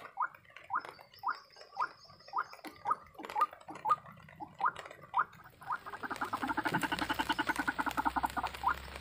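White-breasted waterhen calling: short rising notes repeated about twice a second, breaking into a faster, denser run of calls about six seconds in, with a steady hiss underneath.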